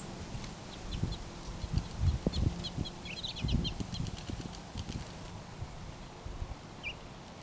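Small birds chirping at a backyard feeder: a flurry of short high chirps over the first few seconds and a single note near the end, over irregular low thumps.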